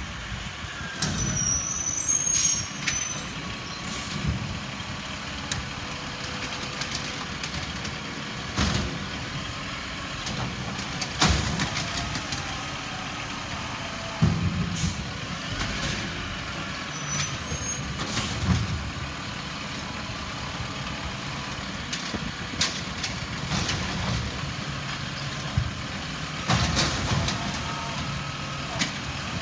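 Recycling truck's engine running steadily, with sharp bangs and clanks every few seconds.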